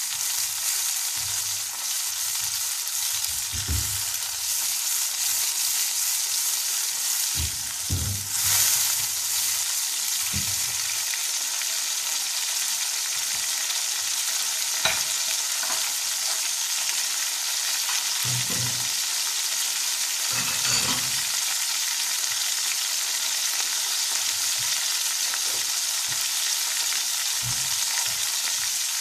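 Onion, ginger-garlic paste and green chilli paste sizzling steadily in oil in a non-stick wok, being fried to cook off their rawness. Occasional soft knocks and scrapes come from a wooden spatula stirring, mostly in the first two-thirds.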